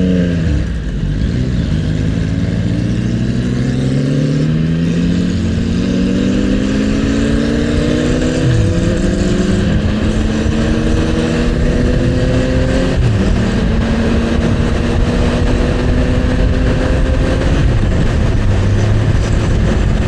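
Motorcycle engine pulling through the gears: its pitch climbs steadily, then drops sharply at each upshift, about three times, over a constant rush of wind and road noise.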